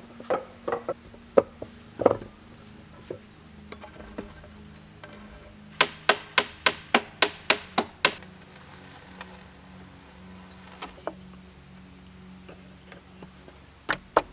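Wood being struck with a tool, chopping or hammering: a few separate blows, then a quick run of about ten sharp strikes, about four or five a second, and two more near the end.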